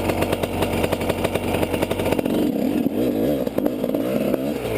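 Enduro motorcycle engine running and revving hard, its pitch rising and falling repeatedly from about two seconds in.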